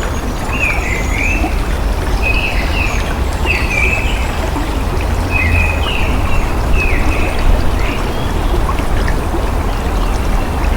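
Steady rush of flowing water with a deep rumble, and a bird giving short chirps about once a second over it.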